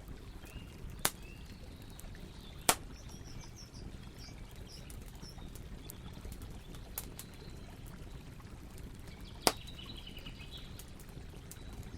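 Campfire burning with a steady low rumble and hiss, and sharp crackling pops from the burning wood, three of them loud: about a second in, near three seconds, and past nine seconds. Birds chirp faintly in the background, in short high notes.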